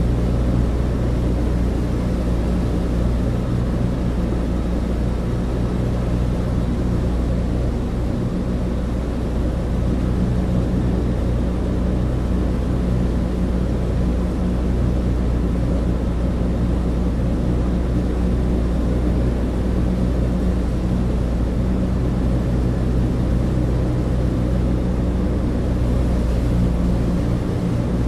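Cabin interior of a Douglas DC-3 airliner: the steady, even drone of its twin radial piston engines and propellers, with a low hum and rushing noise that does not change.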